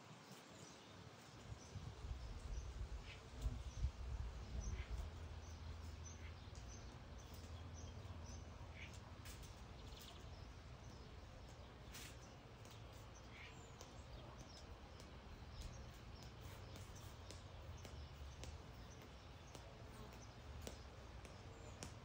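Faint, scattered chirps of small birds over a steady low rumble.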